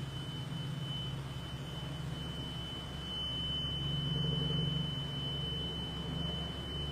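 Unexplained constant buzzing heard outdoors at night: a steady high-pitched tone over a low droning hum that swells briefly about four seconds in.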